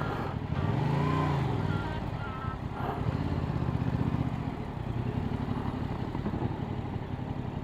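Yamaha R7 motorcycle engine, heard while riding: it revs up and eases back off about a second in, then runs on at a lower, pulsing pitch under steady wind noise.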